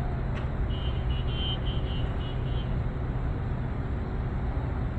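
Steady low rumble, with a faint run of short high-pitched pips about a second in.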